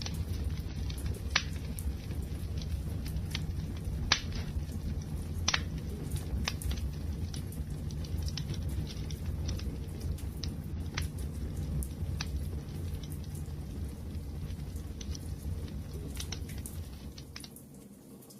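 Wood fire crackling: sharp irregular pops and snaps over a steady low rumble of burning. The sound dips quieter for a moment near the end.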